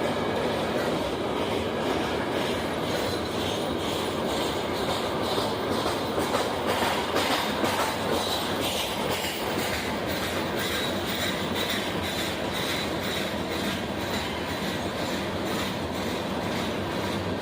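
A train rolling past at close range, its wheels clicking steadily over the rail joints with a faint high wheel squeal.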